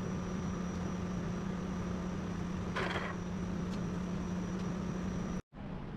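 A steady machine hum with a faint high whine and a short hiss about three seconds in; the sound cuts off abruptly near the end and comes back quieter.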